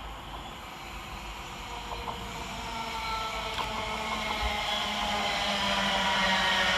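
Two coupled Class 720 Aventra electric multiple units approaching and growing steadily louder: a low hum and several steady whining tones from their traction equipment over rising rail noise.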